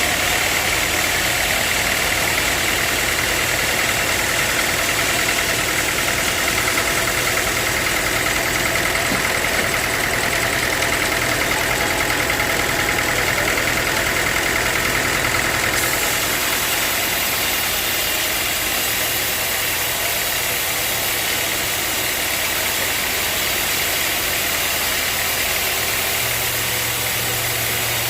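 Sawmill machinery running steadily, a continuous motor hum with a high whine over it that eases somewhat about halfway through.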